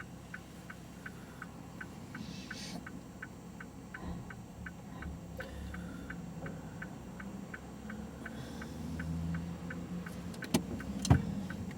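Car's turn-signal indicator ticking steadily, about three to four ticks a second, with two sharp clicks near the end.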